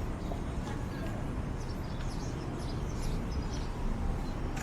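City street ambience: a steady rumble of traffic with short, high chirps scattered through it.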